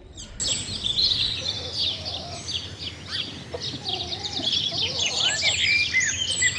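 Small songbirds chirping and twittering, many quick overlapping calls and short falling notes, starting about half a second in.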